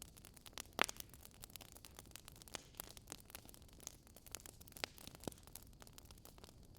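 Wood fire crackling, with irregular sharp pops and snaps over a faint steady hiss. One louder pop comes nearly a second in and a few more after about five seconds.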